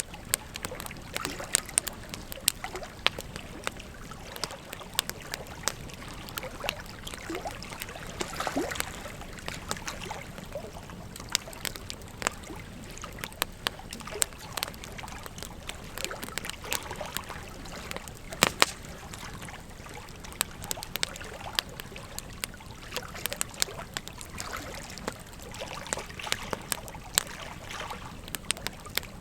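Wood fire crackling and popping in irregular sharp snaps over the steady rush of a flowing river, with one louder pop a little past halfway.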